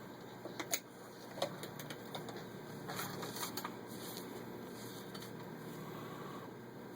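A few scattered sharp clicks and handling noises over a faint steady hum, with no stitching run: the sewing machine has stopped and the stitched denim is being handled and taken out.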